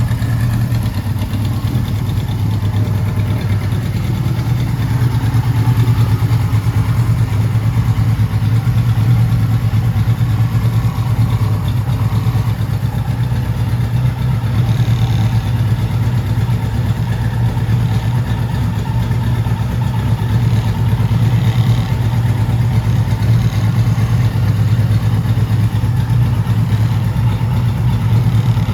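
1979 Kawasaki Z1000ST's air-cooled inline-four engine idling steadily, warmed up, with an even, stable idle.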